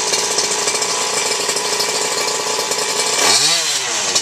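Go-Ped Bigfoot scooter's small two-stroke engine, fitted with an aftermarket DDM exhaust pipe, running steadily just after being started, then revved up and back down once near the end.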